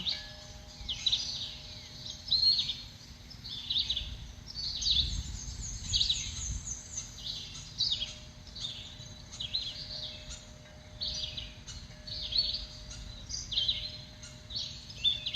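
Small songbirds chirping and singing, with short bright phrases repeating about once a second.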